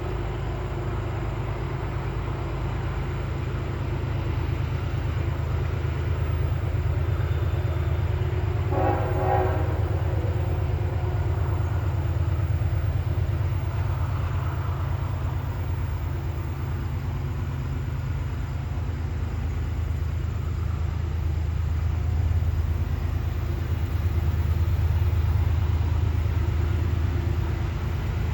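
A freight train's diesel locomotives grinding up a grade with a steady low rumble. A short horn blast sounds about nine seconds in.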